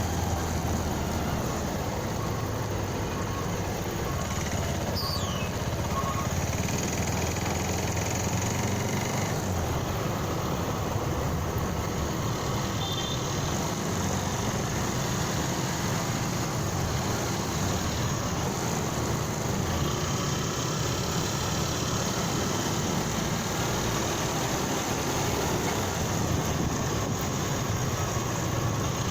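Motorcycle engine running on the move, under steady road and wind noise.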